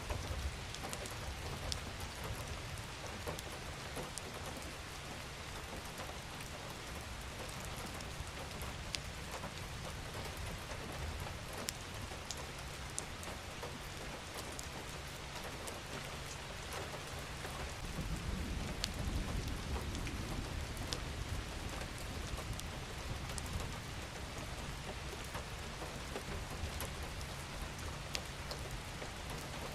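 Steady rain falling: an even hiss with scattered sharp drop taps. A low rumble swells for a few seconds about two-thirds of the way through.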